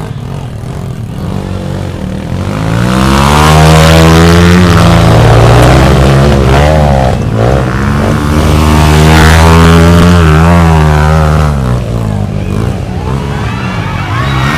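Trail motorcycle engine revving hard under load on a steep dirt climb, its revs rising and dropping several times. It grows loud about three seconds in and eases off near the end.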